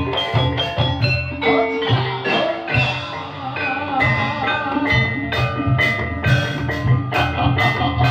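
Live ebeg dance accompaniment in a dangdut style: struck mallet-percussion notes ringing in a quick, even rhythm over steady drum beats.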